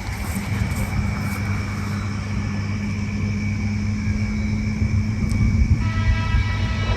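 Steady low rumble of a vehicle, with a steady hum above it. About six seconds in, a pitched tone with evenly spaced overtones comes in.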